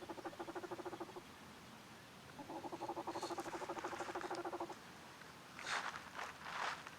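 A mallard duck call blown in a rapid feed chatter, two runs of about ten even notes a second, each lasting about two seconds. A few short rustles follow near the end.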